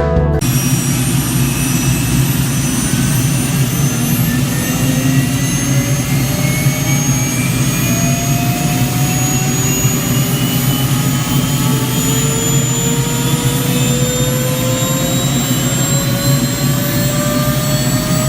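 Aircraft turbine engine spooling up: a steady low rumble under several whines that climb slowly and evenly in pitch.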